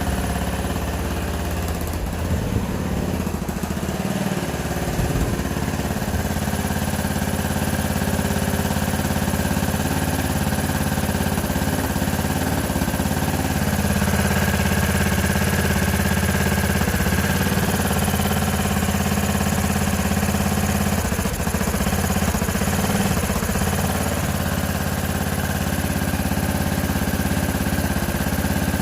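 Q2 125 motorcycle's small single-cylinder engine running at idle, a little uneven for the first few seconds, then steady.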